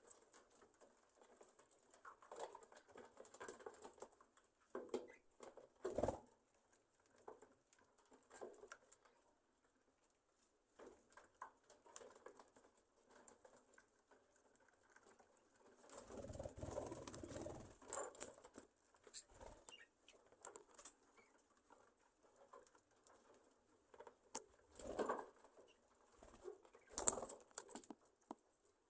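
Budgerigars in an aviary settling for the night: faint scattered scratching, rustling and small clicks from the birds shifting about, with a longer burst of rustling about halfway through and a few louder scuffs near the end. No clear chirping.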